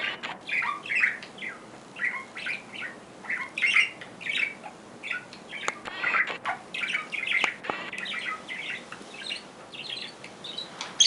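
Pet parrot chirping continuously in short, high calls, several a second, with a few sharp clicks among them.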